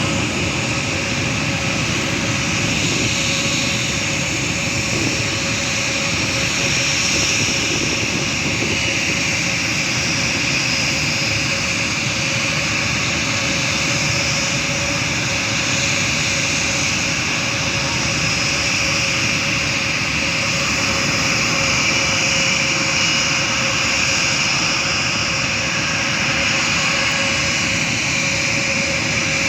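Airbus A320's jet engines running steadily: a constant rush with a held tone and a high whine, neither rising nor fading.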